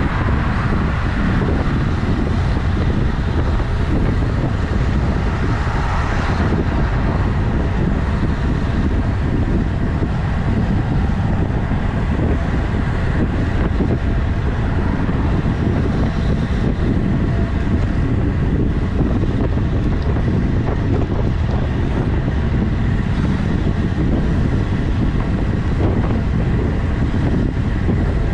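Wind noise on the microphone of a camera carried on a road bike while riding, a steady low rumble throughout.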